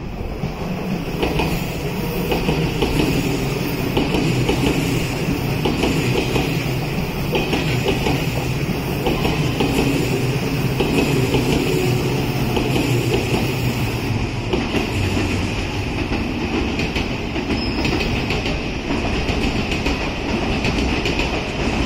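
Odakyu Line electric commuter train passing close by, its wheels clattering rhythmically over the rail joints, with a steady high whine above the rumble.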